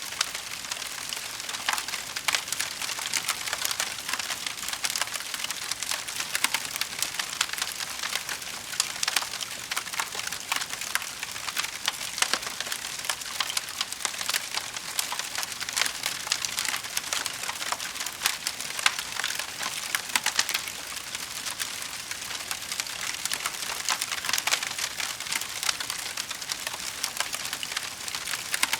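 Wood fire crackling steadily, with dense small pops and snaps over a soft hiss.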